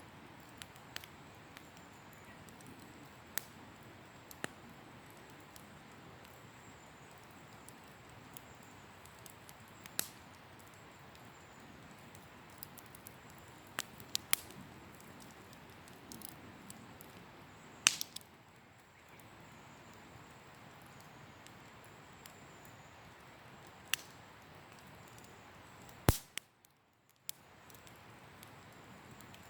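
Wood campfire crackling: a steady low hiss with irregular sharp pops and snaps from the burning wood, a few seconds apart, the loudest about 18 and 26 seconds in.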